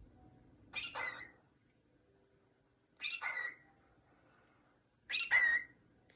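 Cockatiel calling: three short, loud, meow-like calls about two seconds apart, each sliding down in pitch.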